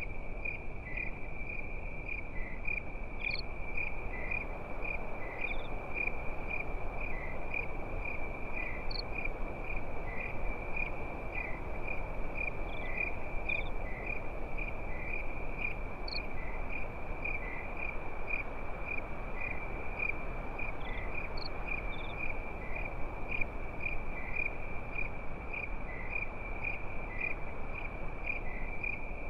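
Crickets chirping in a steady, even rhythm, several chirps a second, with a few other insect notes here and there, over a constant soft hiss.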